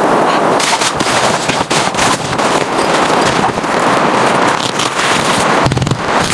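Dense, irregular crackling and popping over a steady rushing noise, like a wood fire burning up close.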